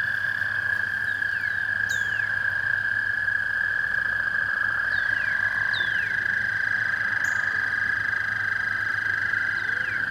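Chorus of American toads: long, steady, high-pitched trills overlapping one another, with a second trill at a slightly higher pitch joining about halfway through. Pairs of quick falling whistled notes cut across the trills three times.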